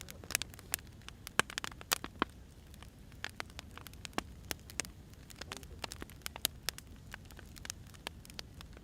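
Wood fire burning, crackling with irregular sharp pops and snaps of varying loudness over a low steady rumble.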